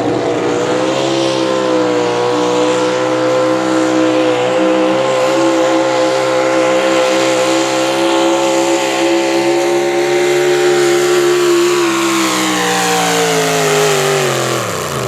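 A pulling vehicle's engine at full throttle, dragging the weight sled down the pulling track. It holds high, steady revs for most of the run, then its pitch falls over the last few seconds as the run slows under the load.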